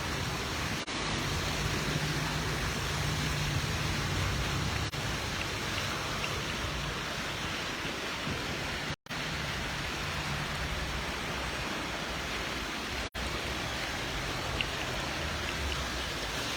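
Steady, even rushing outdoor noise with a faint low hum in places; the sound cuts out for an instant twice, about nine and thirteen seconds in.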